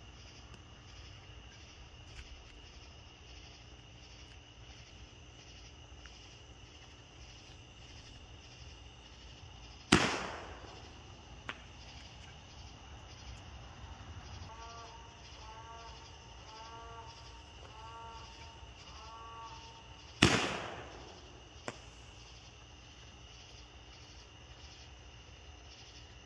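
Two loud bangs from Spitfire fireworks, about ten seconds apart, each dying away in a short echo and followed by a faint click.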